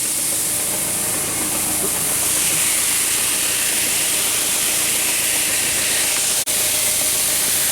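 Wheat seed pouring in a steady rushing hiss from a bulk bag into a grain drill's seed box, with a low steady hum beneath. The sound cuts out for an instant about six and a half seconds in.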